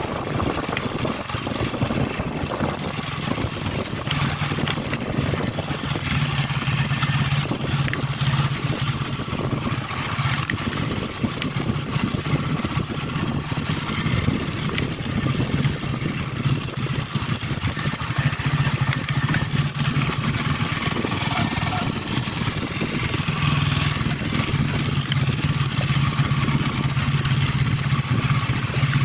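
Motor vehicle engine running steadily while travelling along a road, with a low drone and constant wind and road noise.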